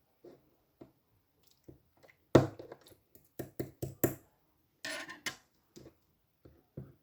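Slime being squeezed and pressed by hand, making an irregular series of sticky clicks and air-bubble pops; the loudest pop comes about two and a half seconds in, with a quick run of pops after it and a longer crackle around five seconds.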